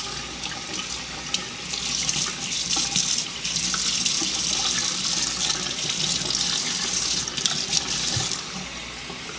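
Tap water running into a sink and splashing through hair as it is rinsed and detangled under the stream. The splashing grows louder about two seconds in and eases near the end.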